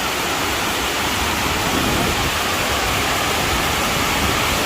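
Waterfall, a loud, steady rush of cascading water.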